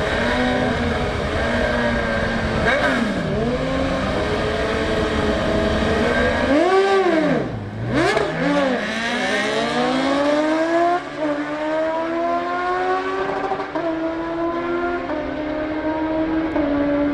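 Sportbike engine revving up and down, dropping off about seven seconds in, then pulling hard through the gears, its pitch climbing with several upshifts in the second half.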